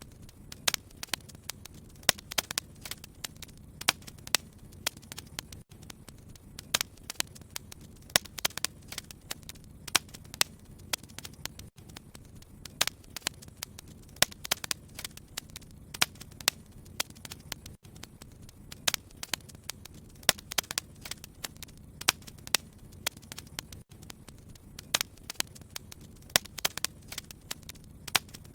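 Wood fire crackling in a fireplace, with irregular sharp pops and snaps over a low, steady rush of the flames.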